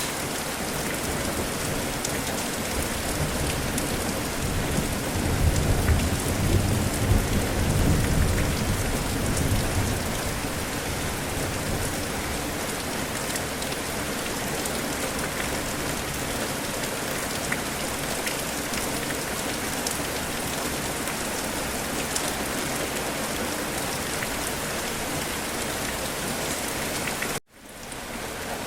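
Steady heavy rain falling, with a low rumble of thunder that swells and fades a few seconds in. Near the end the sound cuts out for a split second, then the rain resumes.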